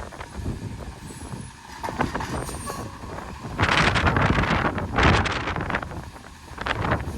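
Refuse truck running, with two loud rushing bursts about halfway through and faint high squeals early on.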